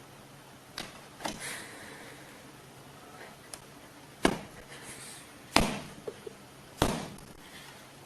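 A series of sharp knocks: a couple of lighter ones about a second in, then three loud ones spaced about a second and a quarter apart in the second half.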